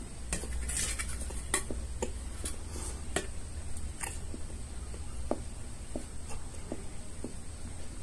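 Close-up eating sounds: chewing and wet mouth clicks from a mouthful of boondi laddu, with light clinks of a steel plate being handled. The clicks come irregularly, several a second and thinning out after the first few seconds, over a steady low hum.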